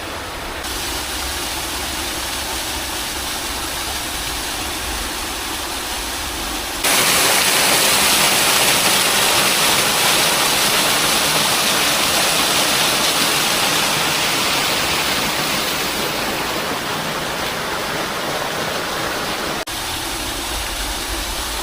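Rushing water of a small waterfall, a steady hiss with a low rumble beneath. About seven seconds in it turns suddenly much louder and brighter, then drops back to the softer rush about two seconds before the end.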